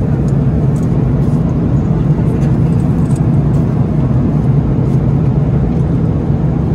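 Steady, loud rumble of an Airbus A330-300's engines and airflow heard inside the passenger cabin, with no change in pitch or level.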